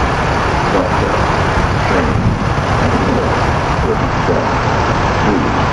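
SEPTA Silver Liner IV electric railcars pulling into the station, a steady loud rumble of motors and wheels on the rails.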